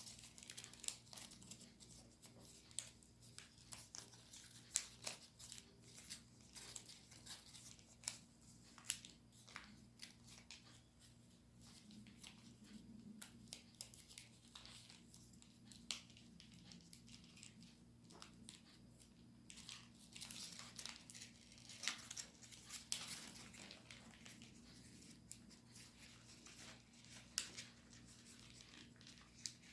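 Origami paper being folded and creased by hand: faint, irregular crinkles and crisp creasing ticks, with a few sharper crackles now and then.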